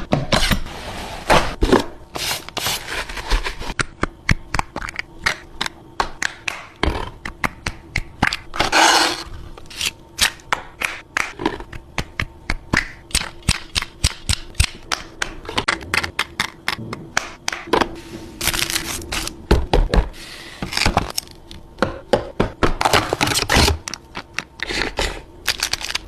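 Drinks and snacks being stocked into a mini-fridge: containers knocking, clinking and scraping on the shelves in quick succession, with several spells of rustling or crinkling packaging. A faint steady hum runs underneath.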